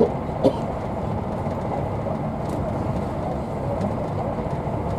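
Steady rumble and rush inside a Class 43 HST 'Intercity 125' passenger coach running at speed on the rails, with one sharp knock about half a second in.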